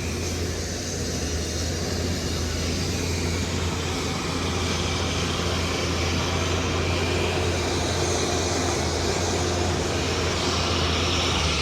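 Steady low rumble of a running engine with an even hiss over it, getting slightly louder toward the end.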